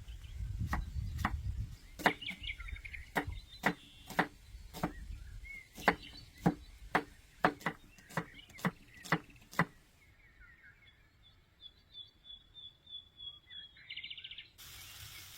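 A knife chopping on a wooden cutting board, about two strikes a second, which stops about ten seconds in. Birds chirp through it and after. A steady sizzling hiss starts near the end.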